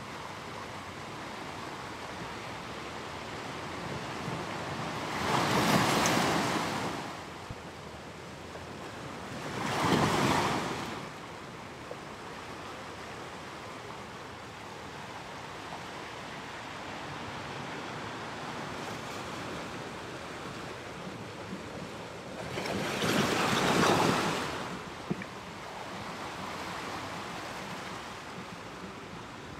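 Ocean waves on a shore: a steady hiss with three waves that swell and fall back, about six seconds in, ten seconds in, and again near twenty-four seconds.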